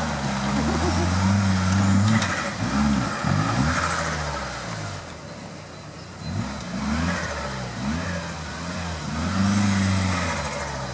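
Off-road vehicle's engine revving in repeated surges, its pitch rising and falling, loudest in the first two seconds and again near the end.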